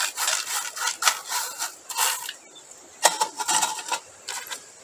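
Crushed stone crunching and scraping inside a wooden box as it is pushed around to set the height, in irregular bursts with short pauses.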